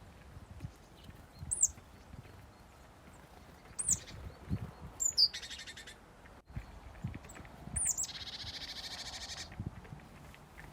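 Small songbirds at a feeder calling: a few short, high, down-slurred chirps, a brief buzzy trill about five seconds in, and a longer pulsed buzzy trill near the end. A few faint dull knocks sound underneath.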